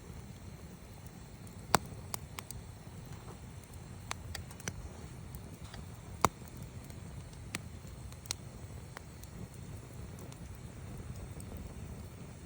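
Wood campfire burning with a low steady rumble, crackling and popping irregularly, with two sharp loud pops, one about two seconds in and one about six seconds in.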